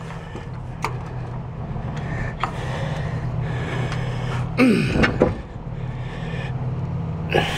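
Starter cranking the 1960 Corvette's 350 V8 in a steady, even rhythm without the engine catching. A short falling voice sound cuts in about five seconds in.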